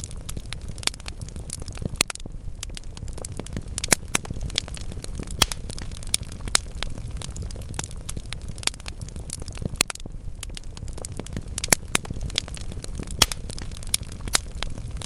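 Wood fire burning in a fireplace: a steady low rumble of flames with irregular crackles and sharp pops from the burning logs, several a second, a few louder than the rest.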